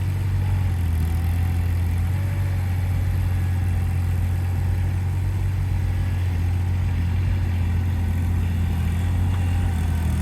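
Avant 423 compact loader's engine running steadily, a constant low hum as it carries beehives on its hive-mover forks.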